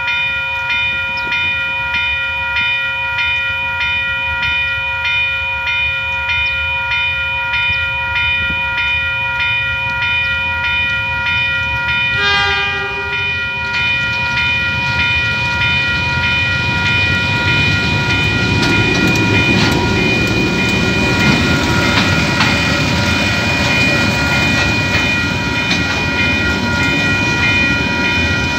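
Level-crossing alarm bell ringing steadily and repeatedly. About twelve seconds in, a locomotive horn sounds one blast of about a second and a half. The rumble and wheel noise of a KiwiRail DSG class diesel locomotive hauling container wagons then builds and passes over the crossing.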